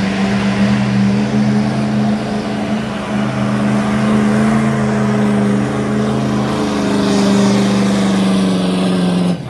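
Street-stock diesel pickup truck engine running loud at steady high revs. It cuts off suddenly at the end.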